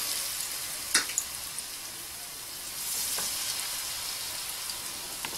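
Onion fritter batter sizzling in hot vegetable oil in a frying pan, a steady hiss as spoonfuls are dropped in. A sharp click about a second in.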